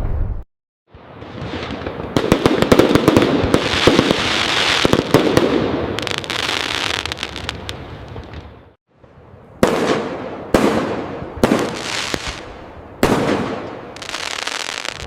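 Fireworks: a dense volley of rapid cracking bangs that swells and then fades over several seconds. After a brief silence come five separate sharp bursts, roughly a second apart, each dying away.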